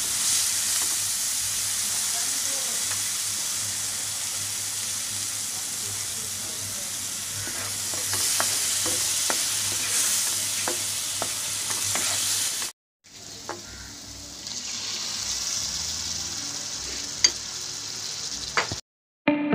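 Onion-and-spice paste sizzling in a hot frying pan as it is cooked down with a little water, stirred with a wooden spatula that knocks and scrapes against the pan several times.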